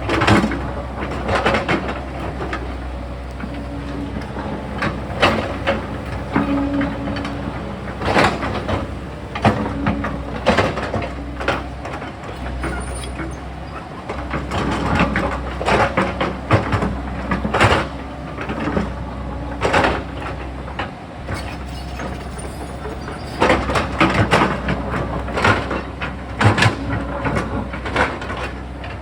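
Sany excavator's diesel engine running steadily while it digs into a rocky hillside, with frequent sharp knocks and scrapes of the steel bucket against rock throughout.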